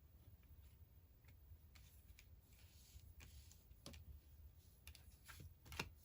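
Faint, scattered clicks and taps of tarot cards being drawn and handled, the loudest tap near the end, over a low room hum.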